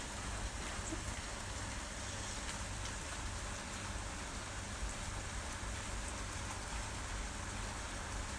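Steady heavy rain falling and pattering on surfaces, with a few faint drips standing out.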